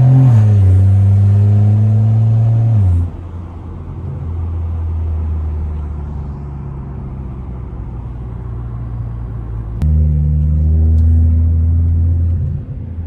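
BMW N55 turbocharged straight-six with a straight-piped exhaust, running loud under throttle, then dropping to a quieter, lower drone off throttle about three seconds in. It comes back on load suddenly near ten seconds in and eases off again just before the end.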